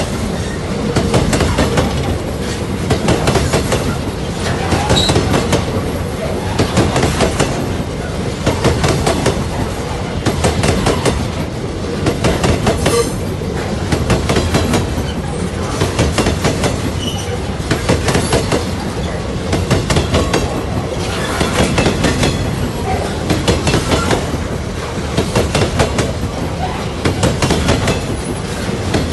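Freight train wagons rolling past close by, their wheels clattering over the rail joints in regular groups about every one and a half to two seconds, over a steady rumble.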